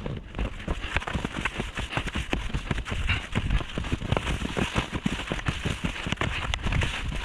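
Skis and poles crunching and scraping over snow in a dense, irregular crackle, with low thumps of pole plants and strides while pushing across flat ground.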